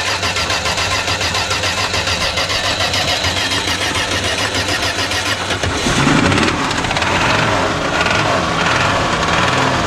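1978 Plymouth Volare's slant-six engine being cranked by the starter with an even rhythm, then catching about six seconds in and running: a first start after years of sitting.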